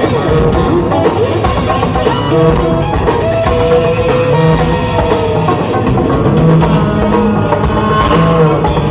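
Rock band playing live through a concert PA: electric guitar and bass over a drum kit, loud and continuous.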